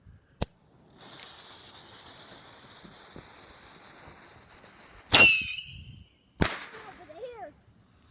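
Skyrocket firework: the fuse hisses steadily for about four seconds, then the rocket goes off with a loud bang and a brief squeal. A second sharp crack follows about a second later.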